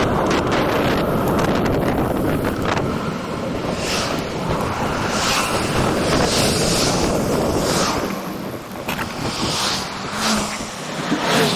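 Wind buffeting the microphone of a moving bicycle rider, a heavy rumbling rush with a higher hiss that swells and fades every second or so. It eases somewhat near the end.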